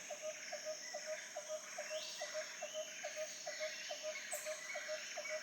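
Faint nature ambience: a short mid-pitched call repeating evenly about three times a second, over a steady high-pitched insect-like drone and softer chirps.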